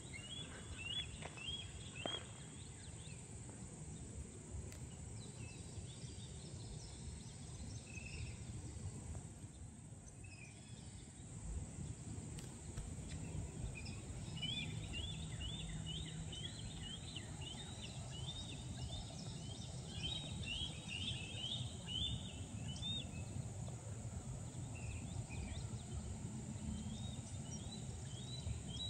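Runs of quick, high chittering bird calls, repeated notes in series several seconds long, over a steady high insect drone and a low rumble.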